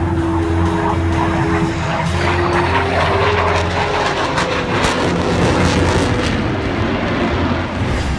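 Aircraft engine noise, loud and steady, with music faintly underneath.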